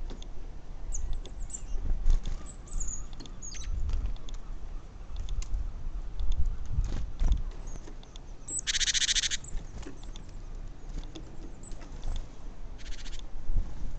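Garden birds calling: a few short high chirps in the first few seconds, then a loud harsh rasping call about nine seconds in and a shorter one near the end, over a low rumble.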